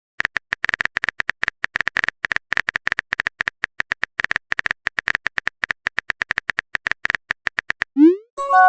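Phone keyboard typing sound effect: a rapid, uneven run of short tapping clicks, roughly eight to ten a second, that stops shortly before the end.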